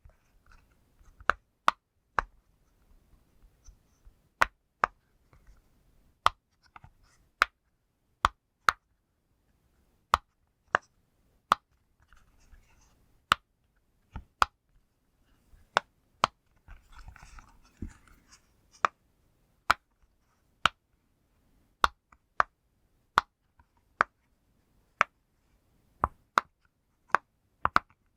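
Bubbles of a push-pop fidget toy being pressed one by one, each giving a sharp pop, about one a second and sometimes two in quick succession, with brief handling rustle near the middle.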